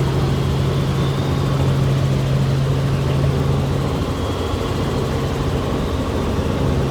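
Helicopter cabin noise: the engine and rotor running steadily with a strong low hum that weakens for a few seconds in the second half, then returns.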